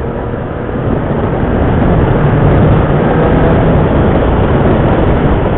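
Motorcycle on the move: engine and wind rushing past, steady, getting a little louder after about a second.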